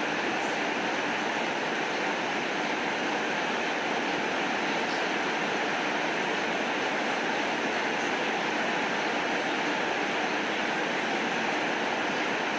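Steady rain falling: an even, unbroken hiss with a few faint light ticks.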